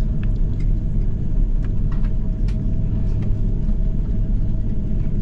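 Cabin noise inside an Airbus A330-300 with its engines running: a steady low rumble with a faint steady whine and scattered light clicks and rattles.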